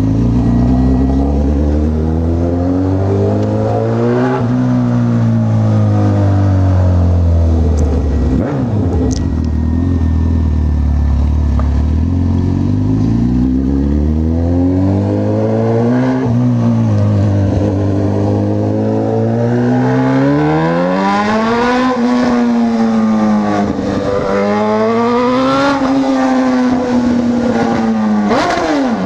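Honda CB1000R's inline-four engine under way, its revs climbing and falling as the bike accelerates and eases off. In the last third the revs rise and drop in quick succession, about every two seconds, as it is run up through the gears.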